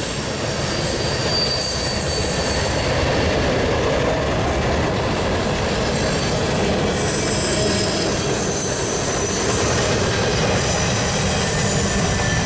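Freight train cars rolling past close by: a steady rumble of steel wheels on rail, with a faint high-pitched wheel squeal that comes and goes.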